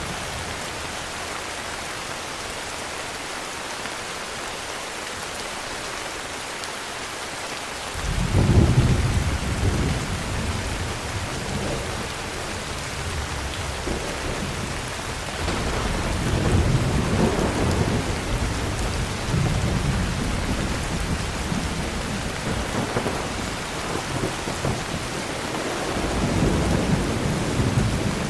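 Steady heavy rain hissing. About eight seconds in, thunder breaks into a low rumble that keeps rolling in slow swells.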